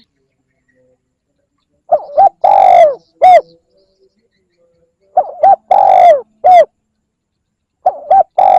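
Spotted dove cooing: three phrases a few seconds apart, each two short coos, a longer drawn-out coo and a final short coo. It is a decoy dove's call played to stir up and draw in wild doves.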